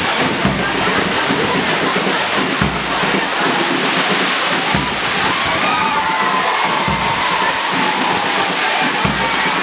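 Heavy rain pouring down: a loud, steady, dense hiss. Faint voices and a low thump about every two seconds run underneath it.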